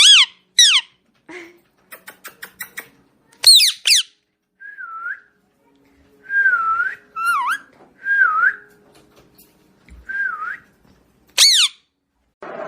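Pet parrot calling: sharp high screeches that fall steeply in pitch, a quick run of about seven clicks, and four or five wavering whistled notes at a steady mid pitch.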